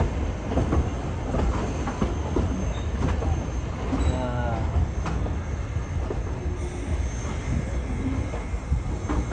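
Narrow-gauge passenger train coach rolling over jointed track: a steady low rumble with irregular wheel clicks, heard through an open coach window. About four seconds in comes a brief wavering squeal of wheel flanges on the curve.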